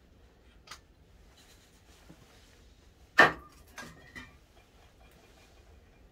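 One sharp knock of a hard object about three seconds in, followed by two lighter clicks.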